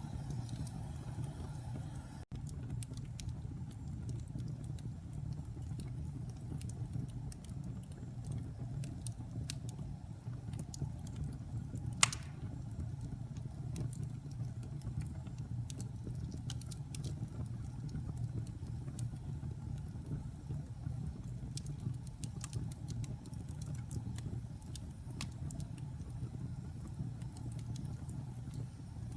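Wood fire burning in a fireplace: a steady low rumble of flames with scattered small crackles, and one sharp loud pop about twelve seconds in.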